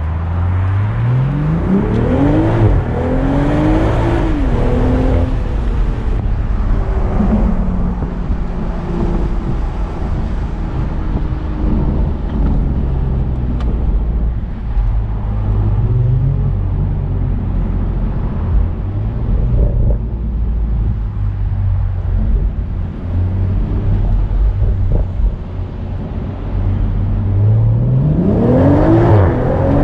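BMW Z4 M40i's turbocharged 3.0-litre inline-six under hard acceleration. Its pitch rises steeply for about three seconds, then falls away, and it runs on at a lower, varying pitch. Near the end it climbs steeply again in a second hard pull.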